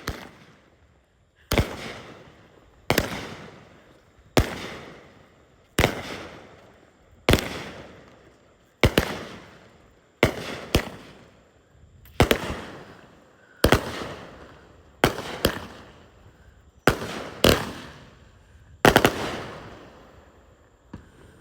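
Fireworks going off in a long run of sharp bangs, about one every second and a half, some in quick pairs, each fading out over about a second.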